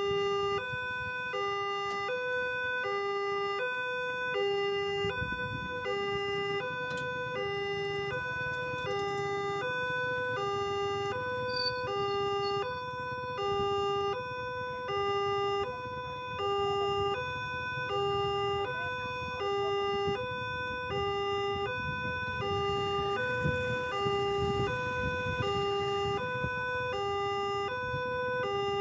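Railway level-crossing warning alarm sounding a steady two-tone electronic signal, alternating high and low about every 0.7 s: the crossing is closed for an approaching train. A low rumble runs underneath and swells twice.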